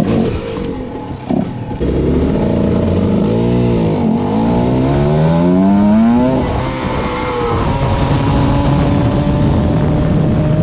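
Cagiva Mito 125's two-stroke single-cylinder engine accelerating under way: its pitch climbs in long sweeps, falls sharply at a gear change about six seconds in, then holds a steadier note at speed.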